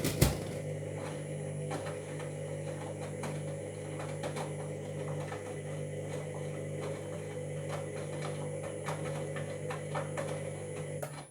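Washing machine motor turning the drum in one direction: a steady motor hum with scattered ticks and clicks, opening with two sharp knocks and stopping abruptly near the end. The owner is listening for a noise he takes as a sign of a drum or motor fault.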